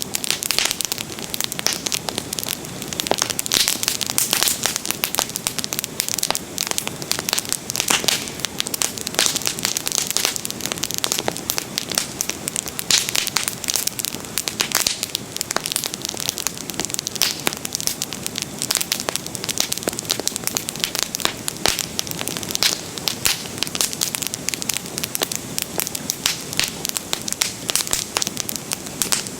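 Bonfire burning and crackling steadily, with a dense run of sharp pops and snaps.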